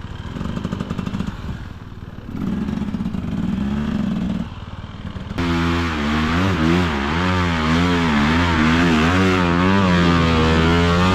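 Dirt bike engine revving, first in two short throttle bursts, then from about five seconds in a much louder, sustained run with the pitch wavering up and down as the throttle is worked on the climb.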